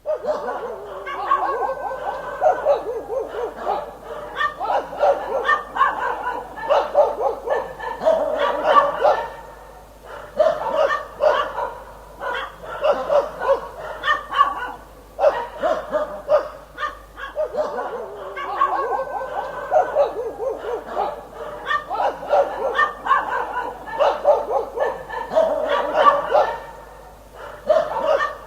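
Dog barking continuously in rapid, overlapping runs of barks, with two brief lulls.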